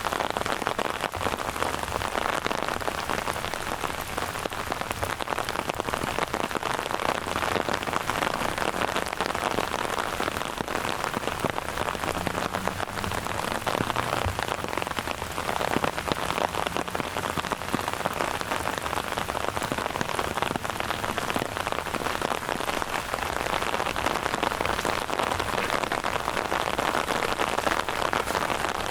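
Steady rain falling, a dense, even patter of drops that goes on without a break.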